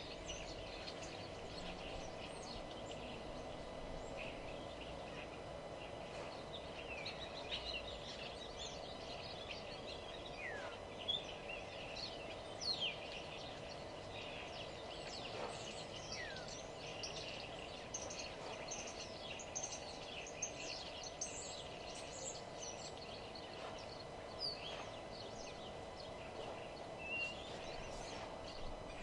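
Several songbirds chirping and singing at once, with many short notes and quick downward whistles overlapping throughout, over a steady low background hum.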